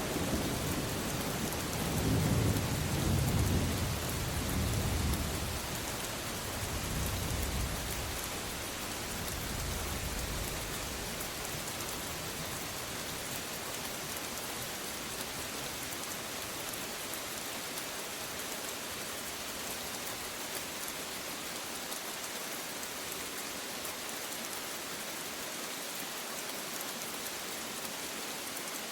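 Steady rain falling, with a roll of thunder rumbling in the first ten seconds or so that dies away, leaving only the even hiss of rain.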